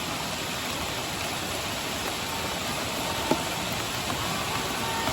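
Steady rain falling, an even hiss, with one sharp tap a little over three seconds in.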